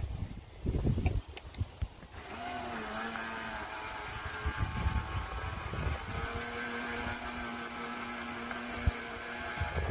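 Oset electric trials motorbike's motor whining, starting about two seconds in, rising briefly in pitch and then holding a steady tone. Low wind rumble and knocks on the microphone before it.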